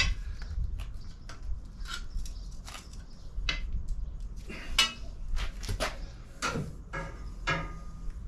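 Irregular metallic clinks and knocks from half-inch steel tubing and tube-bending tools being handled, some strikes ringing briefly; the loudest come around the middle and just past it.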